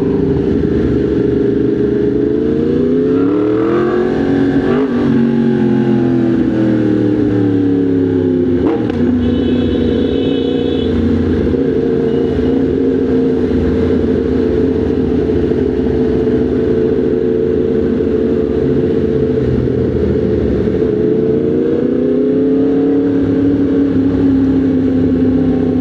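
Motorcycle engine running in traffic. Its pitch rises with the throttle a few seconds in, eases back down, holds steady, then climbs again near the end. A brief high-pitched beep sounds about ten seconds in.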